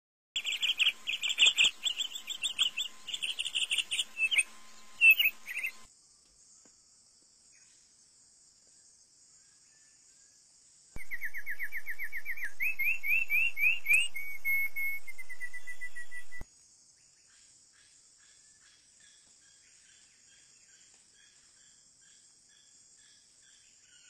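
Bird calls: a burst of rapid, high chirps for about five seconds, a pause, then a run of quick whistled notes, each rising in pitch, for about five seconds, starting and stopping abruptly. Faint repeated chirps follow over a steady high hiss.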